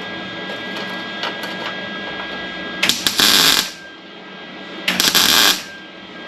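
MIG welder laying two short tack welds on sheet steel, each a burst of arc under a second long, about two seconds apart, over a steady hum.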